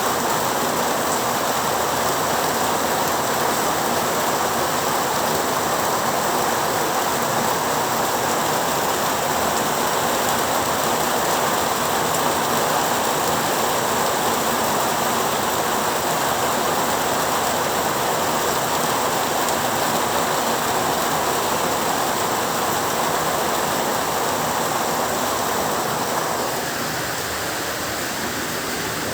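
Heavy rain falling steadily as an even hiss, a little softer for the last few seconds.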